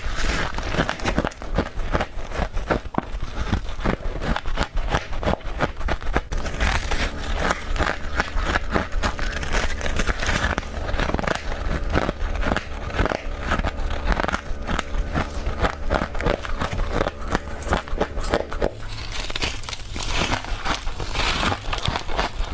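Rapid, close-up crunching of freezer frost being bitten and chewed, a dense run of crisp cracks and crackles. A steady hum runs under it through most of the middle.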